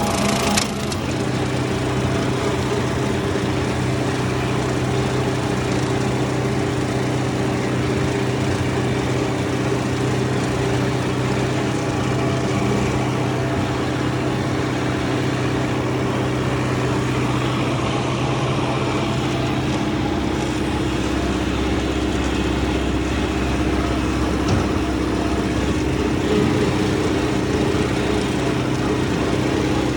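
Tractor engine running steadily while driving a rotary brush hog mower that is cutting thistles. About two-thirds of the way through, the engine's low note shifts lower.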